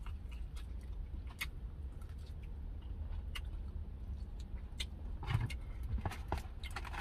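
Close-up wet chewing and lip smacks while eating a smoked chicken wing, with a few louder mouth sounds about five seconds in, over a steady low car-cabin rumble.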